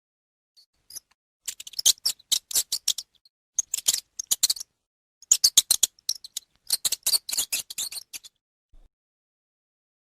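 Animal call: rapid, high-pitched clicking chirps in four bursts of about a second each, with short pauses between them.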